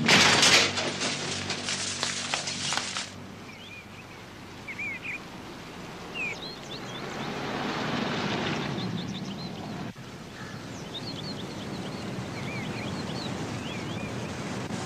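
Small birds chirping over a steady outdoor background hiss, after a loud, noisy passage that stops about three seconds in. A broad swell of noise rises and fades around the middle.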